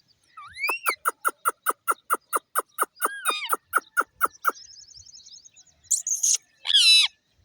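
Indian ringneck parakeets calling. Two rising whistled notes lead into a fast, even run of sharp chirps, about six a second for some three and a half seconds. A soft rapid trill follows, then two harsh squawks near the end, the last one the loudest.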